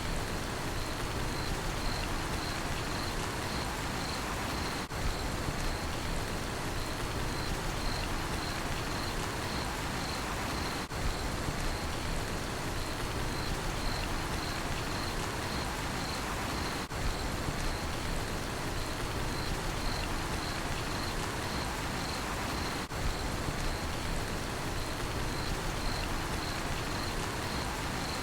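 Steady rain falling, with a cricket chirping in an even, continuous pulse over it.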